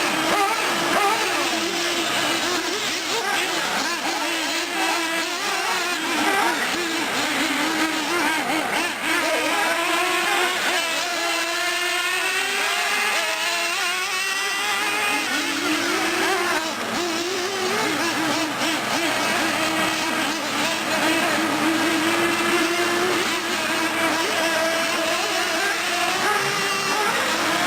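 Several nitro R/C engines in 1/8-scale trucks and buggies running at once, their high-pitched whines rising and falling as they rev up and back off around the track.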